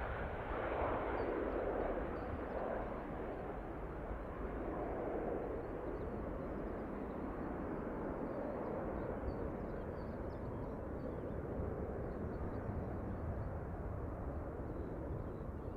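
Airbus A350-941's Rolls-Royce Trent XWB turbofans heard from the ground after take-off: a broad jet roar with a deep rumble, slowly fading and losing its higher tones as the airliner climbs away.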